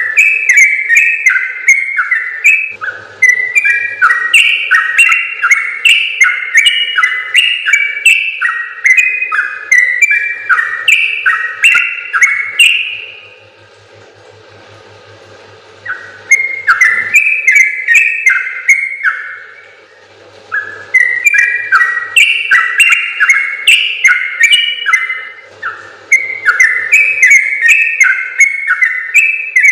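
Yellow-vented bulbul (trucukan) singing long, rapid runs of bubbly whistled notes, each run lasting several seconds, with a pause about 13 seconds in and a shorter one around 20 seconds.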